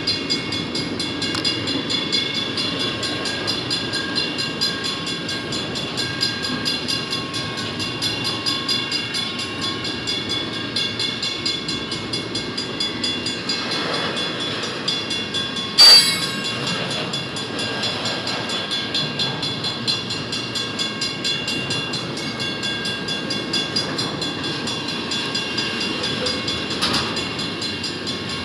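Double-stack container well cars rolling past, a steady rumble and clatter of steel wheels on rail, with one sharp bang about halfway through.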